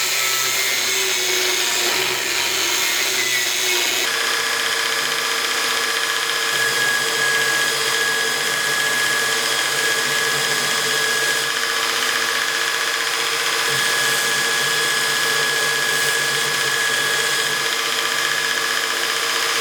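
An electric power tool running steadily, with a steady whine over a rushing noise. Its sound changes about four seconds in, then holds steady.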